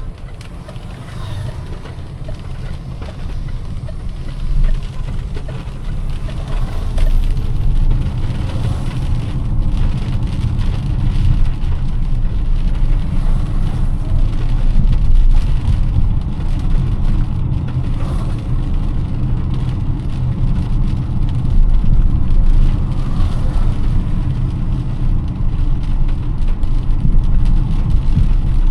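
Car driving in heavy rain: a steady low rumble of engine and road noise under the hiss of rain. It grows louder over the first several seconds, then holds.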